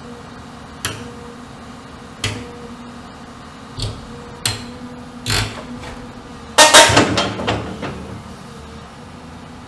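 Sharp metal-on-metal bangs on heavy steel: five single strikes spread over the first six seconds, then a louder run of ringing clangs about seven seconds in. A steady engine hum runs underneath.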